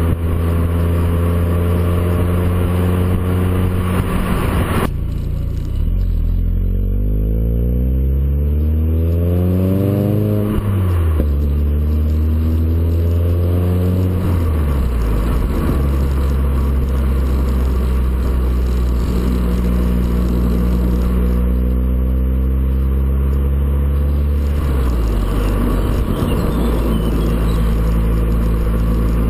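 VW Golf 4 exhaust through a JOM stainless-steel rear silencer: the engine runs steadily, is revved slowly to a peak about ten seconds in and falls back, then drops to a low steady idle, lifting slightly again near the end.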